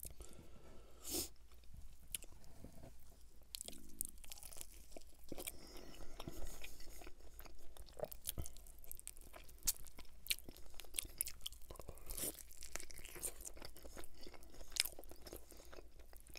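A person biting and chewing buffalo chicken wings, a steady run of many short, quick mouth clicks.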